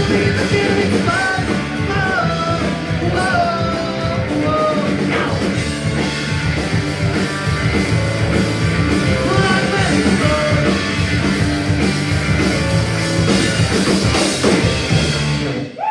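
A punk rock band playing live: distorted electric guitars, bass and drums, with a singer's melodic vocal line. The band stops abruptly near the end.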